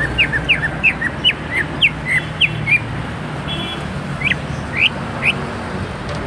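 Green leafbird (cucak ijo) singing a rapid run of short, sharp whistled notes, about three a second, thinning after about three seconds to a few spaced notes, over a steady low hum.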